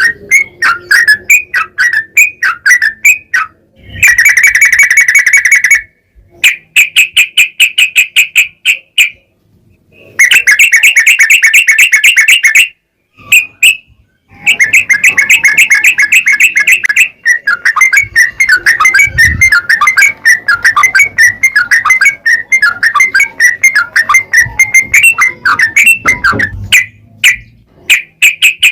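Yellow-vented bulbul (trucukan) singing in rapid runs of short, repeated chattering notes, the sustained 'ropel panjang' song that bulbul keepers use as a lure. The runs come in bursts of two or three seconds with brief gaps, then carry on unbroken for about ten seconds in the second half.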